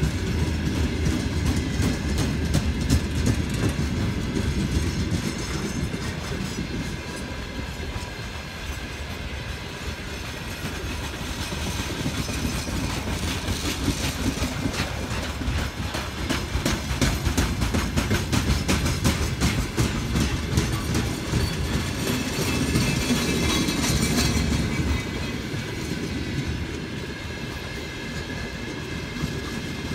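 Freight train wagons (gondolas, tank cars and boxcars) rolling past close by: a continuous low rumble with a steady run of wheel clacks over rail joints.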